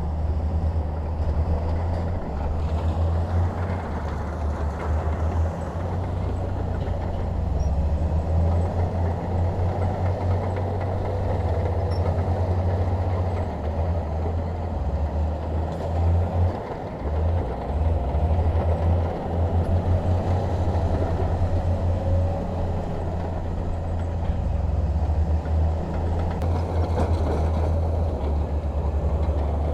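Crawler bulldozer's diesel engine running at work, a deep steady drone whose strength rises and dips a little as the load changes.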